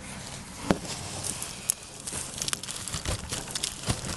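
A cardboard box of flat-packed wooden hive frames being opened and unpacked. Packaging crinkles and tears, with a run of sharp clicks and knocks from the handling; the sharpest knock comes a little under a second in.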